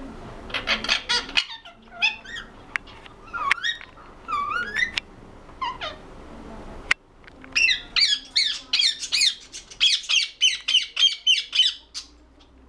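Ringneck parrot calling and chattering in high-pitched, quick squeaky notes, with a dense run of rapid chatter over the second half.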